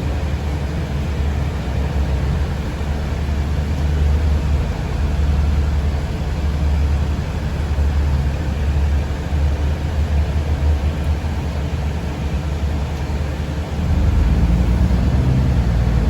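Steady low rumble inside a moving city transit vehicle: drive and road noise from the cabin. It grows louder and deeper about fourteen seconds in.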